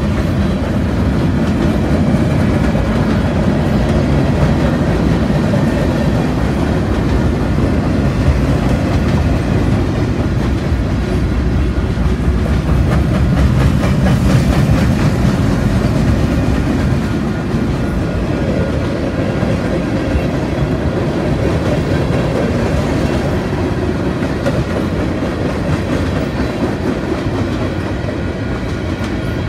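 Norfolk Southern mixed freight train rolling past close by: a steady, loud rumble and clatter of steel wheels on the rails as boxcars, autoracks, tank cars and hoppers go by.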